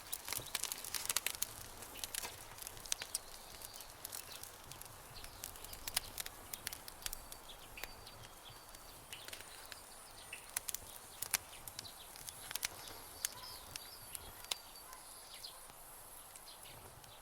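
Campfire crackling: irregular sharp pops and snaps, thickest in the first couple of seconds, over a soft hiss. A few short high chirps come in between.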